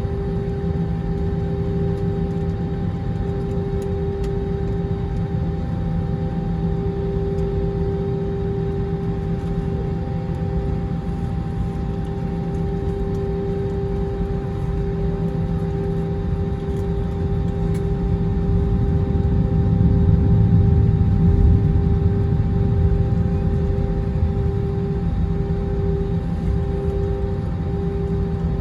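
Airbus A321 jet engines running at a steady hum, with two held tones over a deep rumble. The rumble swells about two-thirds of the way through, then eases.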